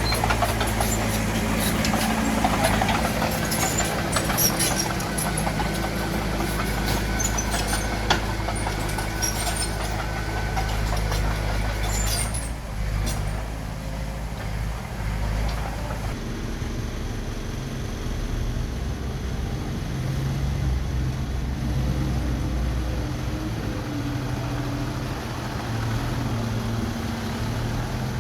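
Bulldozer's diesel engine running steadily, with scattered metallic clanks and squeaks over the first half. The engine note shifts about sixteen seconds in.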